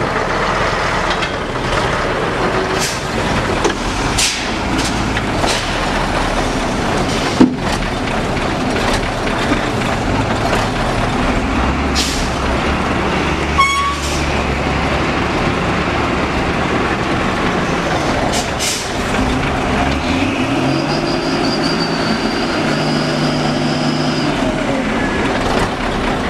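Truck engine running under load, its note shifting; about twenty seconds in it revs up and holds higher. Short hisses and a sharp knock about seven seconds in break through the engine sound.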